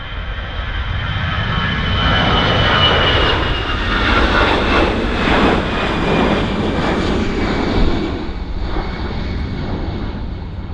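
An easyJet jet airliner's engines passing close by. The rumble swells over the first few seconds, then slowly fades near the end, with a high engine whine that falls slightly in pitch as the plane goes by.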